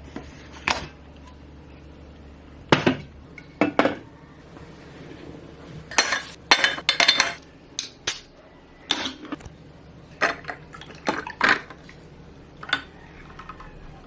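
Kitchenware and glassware being handled: about a dozen sharp clinks and knocks at irregular intervals.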